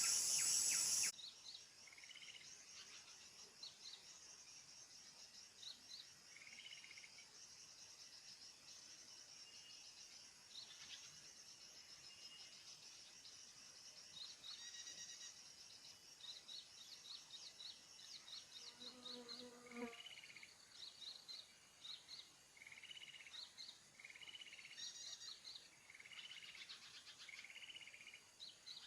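Faint, repeated short chirps of small birds over a steady high insect drone, with a louder noise in the first second.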